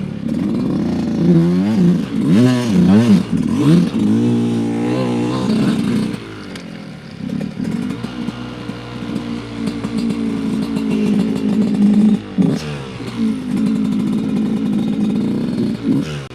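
Dirt bike engine revving up and down again and again through a whoop section of trail bumps, then running at a steadier speed for the rest of the time. A few knocks come from the bike over the rough ground.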